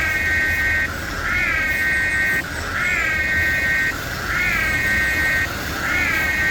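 A repeating electronic warning tone: each cycle is a short rising chirp followed by a held tone of about a second, then a brief gap, about every one and a half seconds. A low rumble runs underneath.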